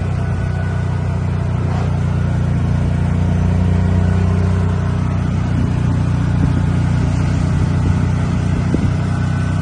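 Motor vehicle running at a steady speed: a low, even engine and road drone that does not rise or fall.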